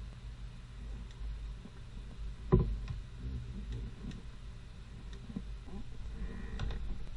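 One sharp knock about two and a half seconds in, among scattered light clicks and taps over a low steady hum, typical of hand work on a cylinder head during valve removal.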